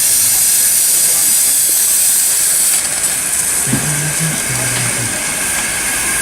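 Miniature steam locomotive venting steam in a loud, steady high hiss that eases slightly about three seconds in.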